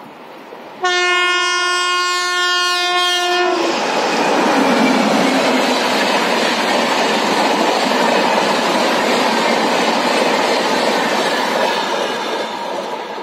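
Indian Railways electric locomotive's horn sounding one long blast about a second in, lasting nearly three seconds. Then comes the loud, steady rush of the express passing at about 130 km/h, easing off near the end.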